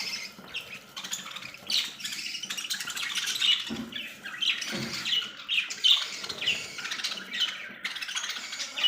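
A flock of caged parrots squawking and chirping, many short calls overlapping with no break.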